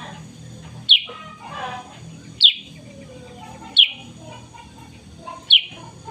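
Kutilang sutra, a black-and-yellow bulbul, singing: four loud, sharp downward-sweeping notes about a second and a half apart, with softer warbling between them.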